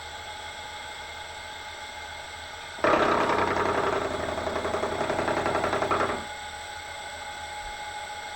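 Bridgeport milling machine spindle running steadily. About three seconds in, the cutter bites into mild steel plate and gives a loud, rough cutting noise for about three seconds, then it drops back to the spindle running alone.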